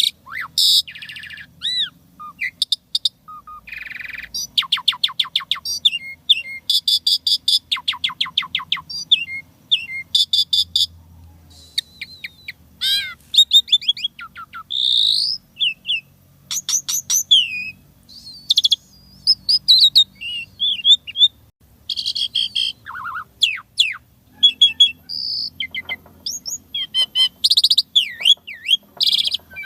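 Asian pied starling (jalak suren) singing a fast, varied song packed with mimicked phrases: quick runs of repeated clicking notes, short sweeping whistles and chirps, broken by brief pauses.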